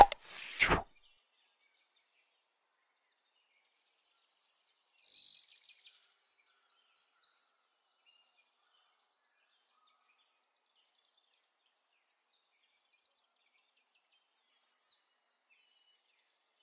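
Faint high-pitched bird chirps in short clusters, a few seconds in and again near the end, after a brief loud noisy sound at the very start.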